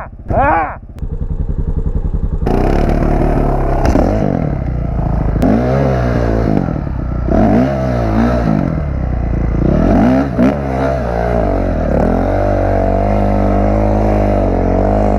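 Dirt bike engine revving hard again and again, the pitch climbing and dropping several times, then held high and steady near the end: the rear tire is spinning in snow while the bike stays stuck.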